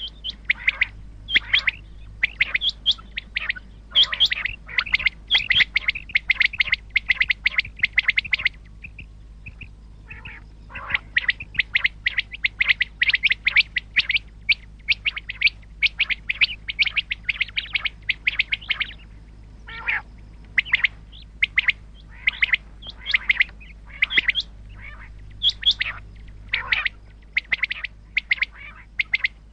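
Common quail calling: rapid runs of short, sharp chirping notes, many per second, pausing for about two seconds a third of the way through and becoming more broken towards the end.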